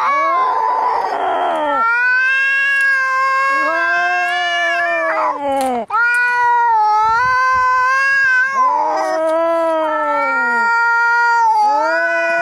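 Angry cats caterwauling at each other in long, drawn-out, wavering yowls that overlap, with a harsh rasping cry in the first couple of seconds: the sound of a cat standoff before a fight.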